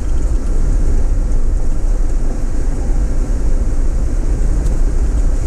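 Steady low road and engine rumble inside a moving Cadillac Escalade's cabin.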